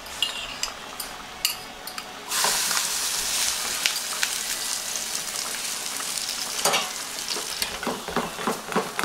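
A spoon clicking against a bowl as an egg and grated-carrot omelette mixture is stirred, then, about two seconds in, a sudden loud sizzle as the mixture hits hot oil in a small frying pan. The sizzle goes on steadily, with the spoon scraping and tapping as the mixture is spread in the pan.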